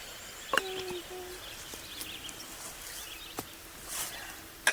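Outdoor ambience: a short low call and a shorter one about a second in, faint high bird chirps, and a few sharp clicks, the loudest right at the end.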